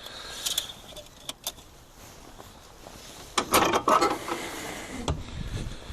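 Keys jangling and a few sharp clicks, then a brief loud clatter and some low thumps as the Lada classic is handled before starting. The engine is not running.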